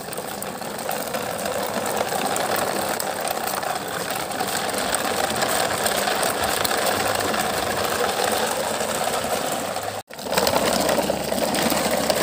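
The small electric motor and gears of a toy vehicle whirring steadily. The sound drops out for a moment about ten seconds in, then picks up again.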